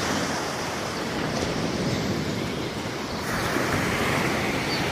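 Surf washing onto a sandy beach, a steady hiss of breaking waves mixed with wind on the microphone, swelling a little about three seconds in.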